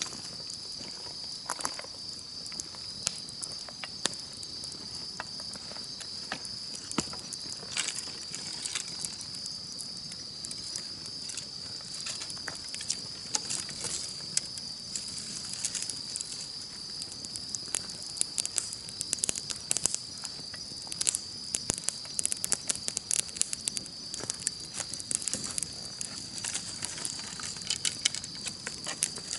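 Campfire crackling and popping in irregular sharp snaps, which come more often in the second half, over a steady high-pitched chorus of insects.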